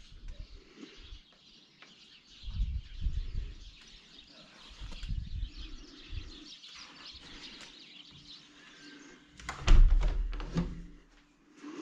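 Small birds chirping faintly in the background, broken a few times by low rumbles on the microphone. Near the end there is a loud knock and handling noise as the camera is moved.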